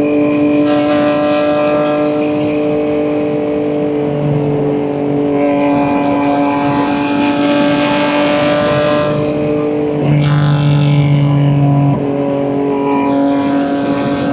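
BMW M2 G87's twin-turbo S58 inline-six, fitted with catless downpipes and an equal-length mid pipe, cruising at a steady engine speed: an even exhaust drone that holds one pitch. A rushing noise swells and fades in the middle.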